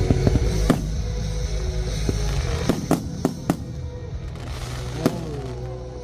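Aerial fireworks bursting overhead: about half a dozen sharp bangs, four of them in quick succession midway, over loud music playing.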